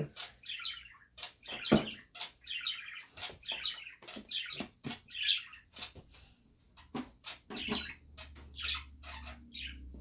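A small bird chirping and twittering in quick, repeated short calls, with a few sharp clicks; a low hum comes in about three-quarters of the way through.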